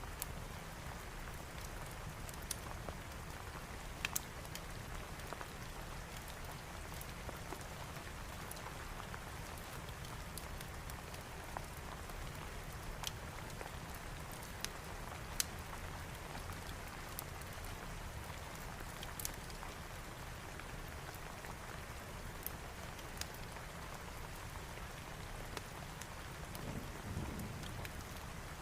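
Steady rain falling, with scattered sharp crackles and pops from a wood fire and a low rumble that swells briefly near the end.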